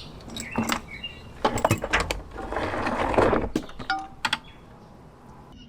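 Hand tools and metal engine parts on a Detroit Diesel 4-53 engine being dismantled: a series of sharp metallic clicks and clinks, with a dense rattling, scraping stretch in the middle.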